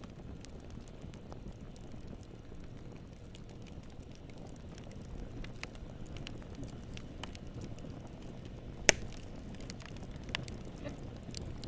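Wood fire burning in a fireplace: a low steady rumble with scattered crackles, and one sharp loud pop near the end.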